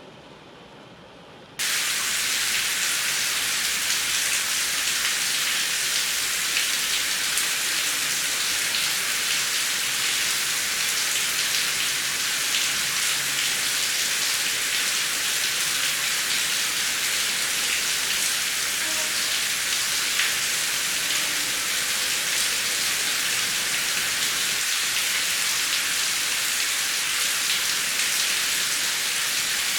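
Heavy rain falling in a steady, dense hiss with fine patter. It comes in suddenly about a second and a half in, after a quieter, duller stretch.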